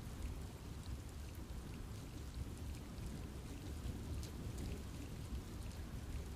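Steady rain falling on forest trees, with scattered individual drops ticking over a continuous low rumble.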